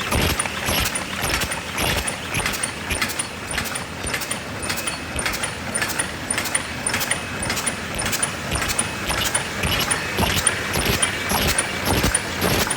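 High-speed paper cup forming machine running, a steady, rapid mechanical clatter of clicks and knocks.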